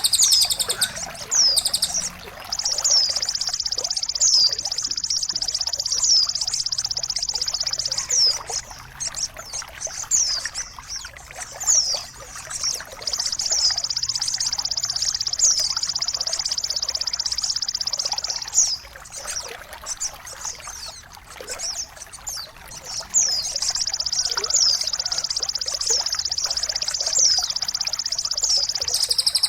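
Songbird tutoring audio: three long, high, rapid trills of about six seconds each, with short down-slurred whistle notes between them, over a faint trickle of water.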